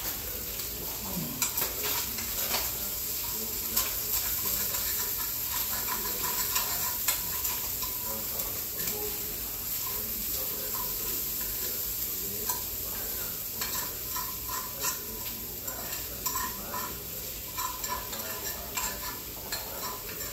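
Chicken frying and sizzling in hot grease in a pan, with a fork clicking and scraping against the pan, more often in the second half.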